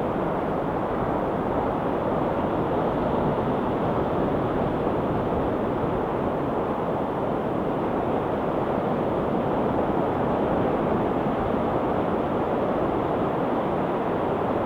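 Ocean surf as a steady, unbroken rush of noise, with no separate wave breaks or bird calls.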